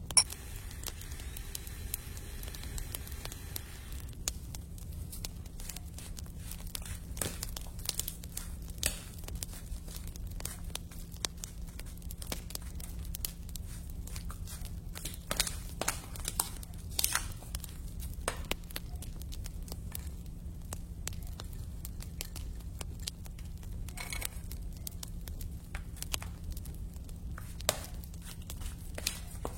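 Irregular clicks and crackles over a steady low hum.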